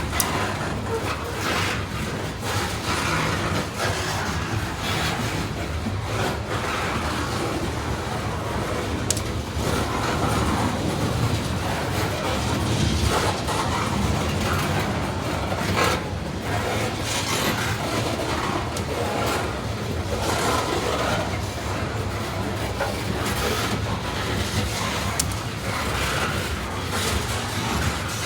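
Freight train cars rolling past on the rails: a steady rumble of wheels on track with a few sharp clicks.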